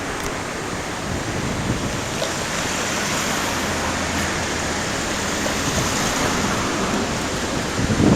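Steady rush of the Kumano River in typhoon flood, mixed with wind.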